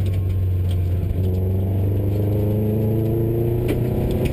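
Subaru rally car's flat-four engine heard from inside the cabin, holding steady for about a second and then rising in pitch as it accelerates. Scattered clicks and knocks from the car running over loose gravel.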